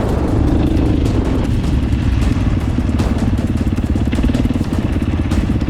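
KTM 450 dirt bike's single-cylinder four-stroke engine running steadily under way, with a fast even pulsing beat.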